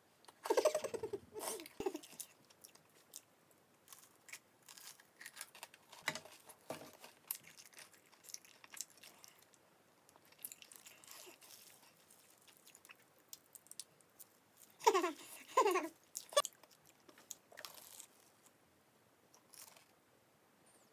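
Close-miked biting and chewing of a crunchy fried corn dog, many small crunches. Louder mouthfuls come about a second in and again around fifteen seconds.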